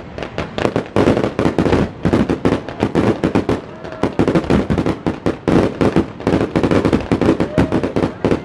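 Fireworks display barrage: aerial shells bursting in quick succession, several sharp bangs and crackles a second with no let-up.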